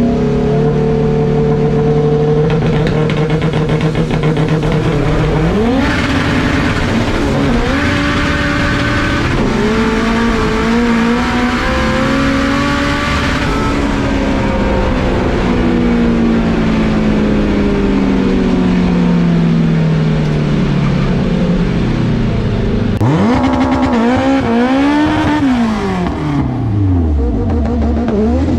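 Drag race car engines held at steady revs, then climbing in pitch through several gear shifts, then falling away over several seconds. Near the end an engine revs sharply up and down a few times.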